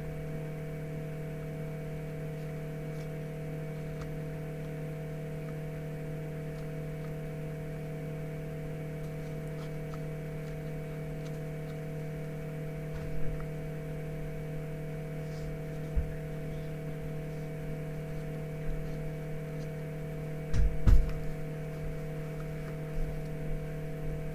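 Steady electrical mains hum made of several fixed tones, with a few soft low thumps about halfway through and near the end.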